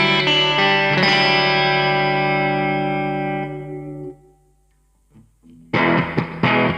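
Ibanez GRX20 electric guitar with two humbuckers, played through a clean tone. A chord is strummed, struck again about a second in, and left to ring out and fade. After a short pause, rhythmic strumming starts again near the end.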